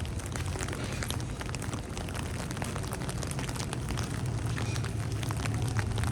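Steady crackling patter of falling wet snow, dense with fine irregular ticks, over a low steady rumble.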